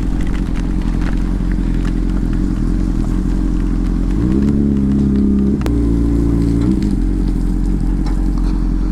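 2006 Honda CBR600's inline-four engine running under way, with a low rumble of wind and road noise. About halfway through the engine note steadies into a clear held tone for a couple of seconds, broken by a single sharp click.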